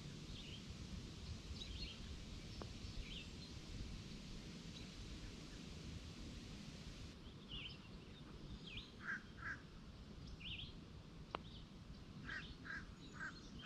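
Songbirds chirping faintly in short scattered calls, more often near the end, over a low steady outdoor background. A single sharp click comes about eleven seconds in.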